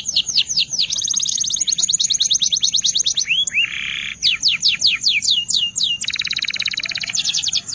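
Belgian canary singing a continuous run of high trills. Phrases of quick falling whistled notes alternate with faster, buzzier rolls, and a brief lower warbled phrase comes near the middle.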